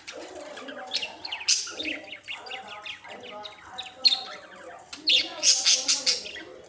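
Budgerigars chattering: a continuous warble of rapid chirps, clicks and squeaky notes, with louder bursts about a second and a half in, near four seconds, and a longer loud run near the end.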